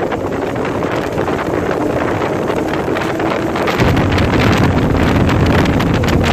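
Honda S2000's F22C four-cylinder engine under load down a straight, heard from inside the cabin with heavy wind noise. Just under four seconds in, the engine note suddenly turns deeper and louder with a gear change.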